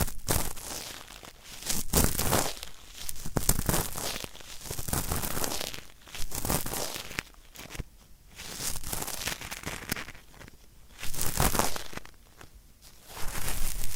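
Cotton swab rubbed hard against an ear in ear-cleaning ASMR, heard in the right ear: a scratchy, crackling grinding in irregular strokes about one every second or two.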